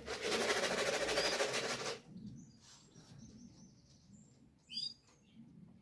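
Racing pigeon's wings flapping loudly for about two seconds as it comes down to the loft, followed by faint bird chirps and a short high call near the end.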